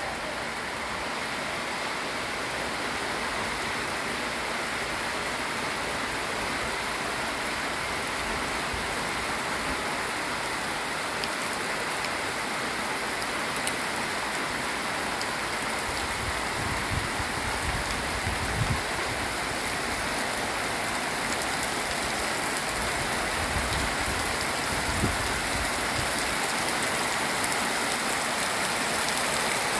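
Rain falling in a steady hiss that grows slowly heavier as the shower arrives, with a few brief low rumbles in the second half.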